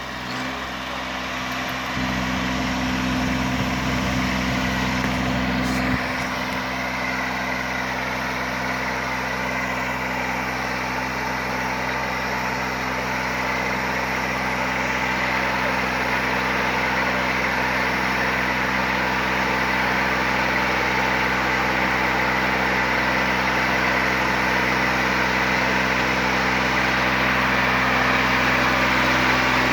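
Mini tractor engine running steadily with the boom sprayer in operation, its low hum heavier for a few seconds near the start before settling.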